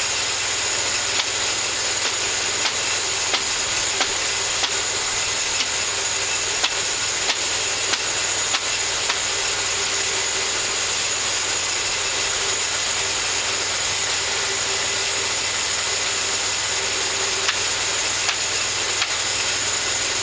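Engine-driven homemade bandsaw mill running steadily as it saws a cherry log: an even hiss with a steady high whine, and faint ticks about every second.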